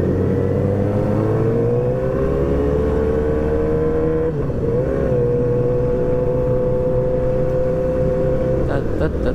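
Sport motorcycle engine running under way at fairly steady revs. The pitch rises gradually over the first four seconds, dips briefly and recovers about four and a half seconds in, then holds steady.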